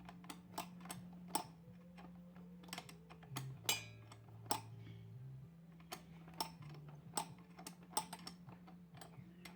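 Irregular light clicks and taps of parts and tools being handled during reassembly of a washing machine gearbox, over a steady low hum.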